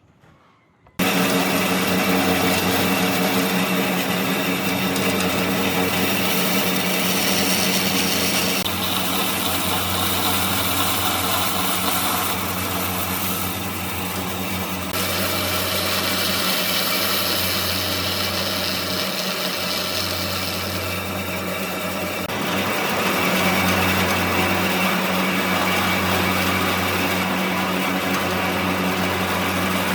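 An electric power tool running steadily with a fixed hum and a hissing cutting or sanding noise that grows and fades. It starts abruptly about a second in.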